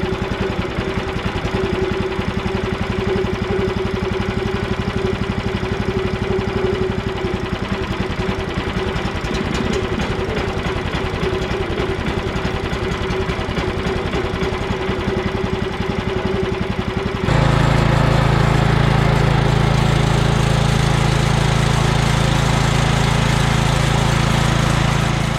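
Gasoline engine of a freshly assembled Frontier portable sawmill running steadily on its first start. About two-thirds of the way through it abruptly gets louder and deeper.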